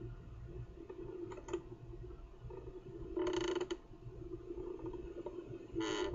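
Kookaburra chick giving two short, harsh rasping calls, one about three seconds in and a shorter one near the end, over a steady low wind rumble.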